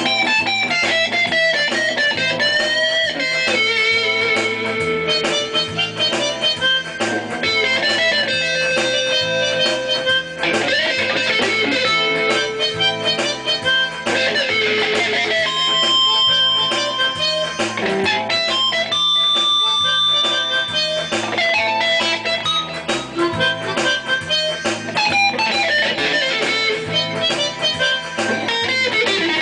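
Guitar playing, likely electric, with single-note lead lines, bends and long held notes over a steady accompaniment.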